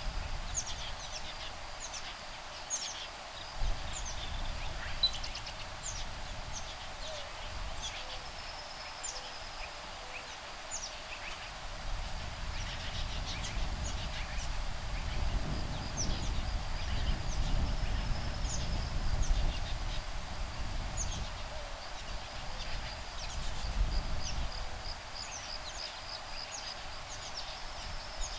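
Woodpeckers, nestlings and adults, calling back and forth in many short, high calls over a steady high-pitched insect trill. A breeze picks up in the middle, adding a low wind rumble, then eases off.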